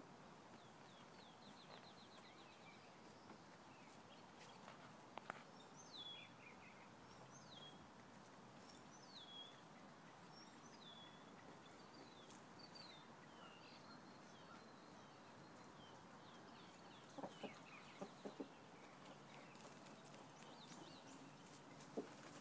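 Faint bird calls: a short rapid high trill, then a run of high chirps, each sliding down in pitch, repeated about every second and a half, with a few soft clicks later on.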